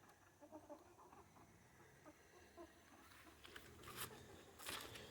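Faint, scattered clucking of free-range chickens, with a few soft rustles and knocks in the last couple of seconds.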